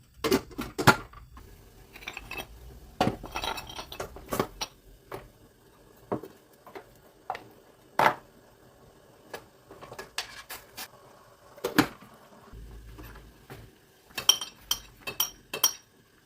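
Kitchenware being handled while cooking: a series of sharp knocks and clinks of dishes, pots and utensils, with a quick run of ringing metallic clinks near the end.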